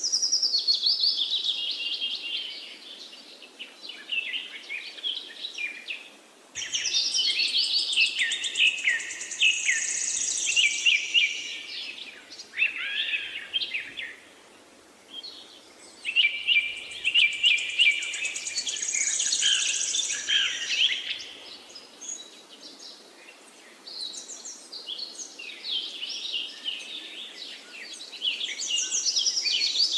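A flock of parakeets chirping and chattering in rapid, overlapping calls, in several bouts with short lulls about 6, 14 and 23 seconds in.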